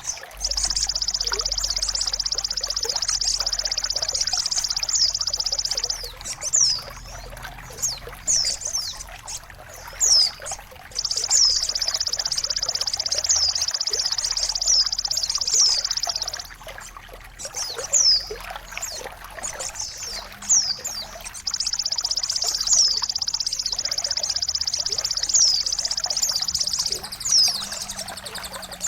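Songbird tutoring (masteran) track: trickling water under repeated short, high, downward-sliding chirps, broken three times by a loud, high buzzing trill lasting about five seconds.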